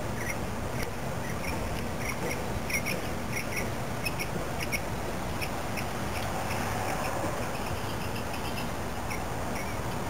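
An unidentified bird calling in short, sharp chirps repeated in quick runs, busiest in the first half and sparser in the middle, over a steady low rumble of background noise.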